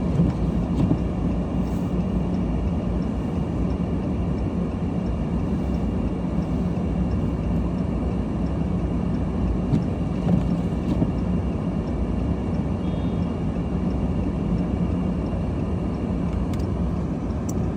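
Steady engine hum and low rumble of a car heard from inside its cabin, with no change in pitch.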